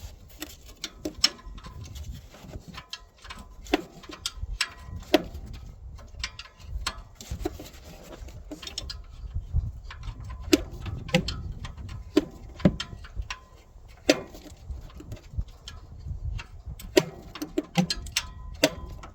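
A 17 mm ratcheting wrench clicking as a bolt is worked loose, with irregular sharp metallic clicks and clinks of the tool against the metal.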